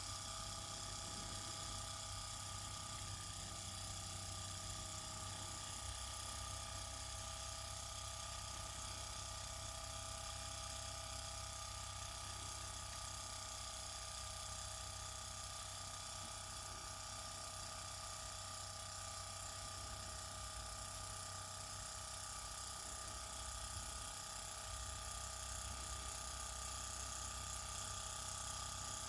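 OKMO Microcosm JO6B miniature Stirling engine running fast on its spirit burner: a steady, fairly quiet, high-pitched mechanical whine from the spinning flywheel and mechanism.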